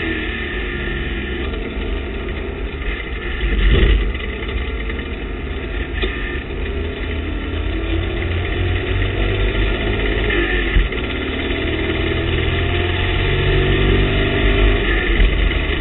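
TVR Tuscan race car's engine heard from inside the cockpit, running at low load with the revs slowly rising and falling on the slow lap after the chequered flag. There is a sharp thump about four seconds in.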